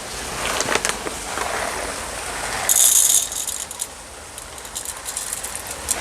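Whole coffee beans poured out and rattling into a dosing cup as about 18 grams are weighed out, with scattered clicks and a brief hiss about three seconds in.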